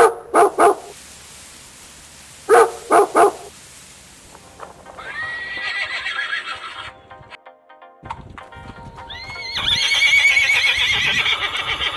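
A small curly-coated dog barks in two quick runs of three. Then a horse whinnies twice, each a long wavering call, the second the louder.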